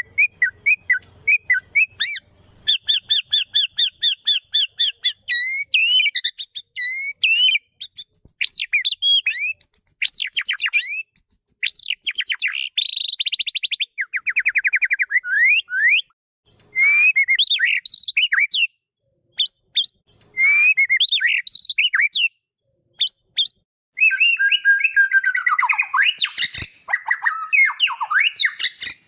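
White-rumped shama (murai batu) singing a varied, fast song: quick runs of repeated notes, sliding whistles and rapid trills, broken by a few short pauses, with a harsher, scratchier stretch near the end.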